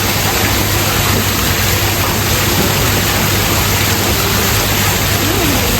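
Steady, loud rushing of falling water from a waterfall or water feature beside a fish pond.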